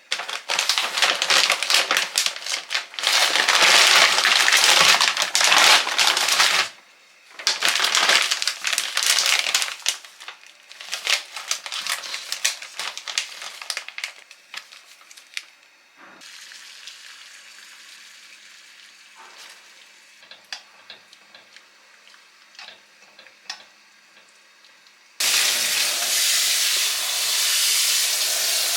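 Loud crackling in several stretches, then quieter scattered clicks; about twenty-five seconds in a kitchen tap starts running.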